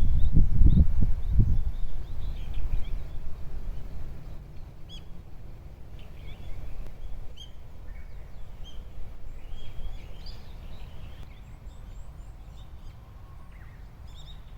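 Small birds chirping and calling repeatedly in short notes, over a low rumble of wind on the microphone that is strongest in the first couple of seconds and then dies down.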